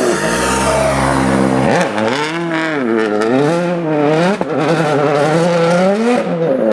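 Rally car engine at full load, its pitch steady for the first couple of seconds, then rising and falling several times as it revs up and drops through gear changes. It stays loud throughout.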